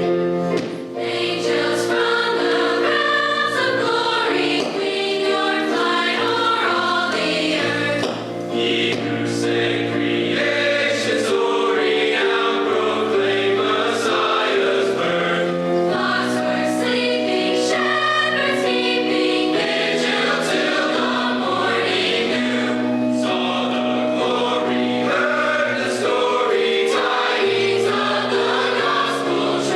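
High school choir singing a Christmas song in harmony, several voice parts holding chords that change every second or so.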